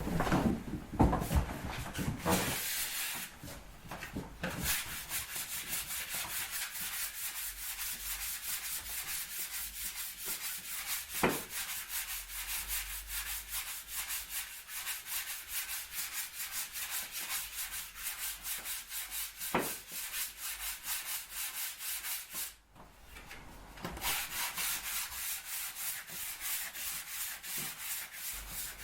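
Hand sanding: rhythmic back-and-forth rubbing strokes on a surface, about two to three a second. There are louder handling knocks in the first few seconds and a short pause near the end.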